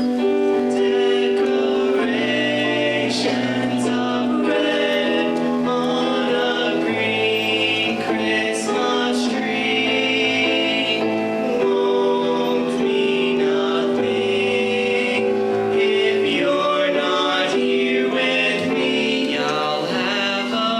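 High school choir singing a Christmas piece in held chords that change every few seconds.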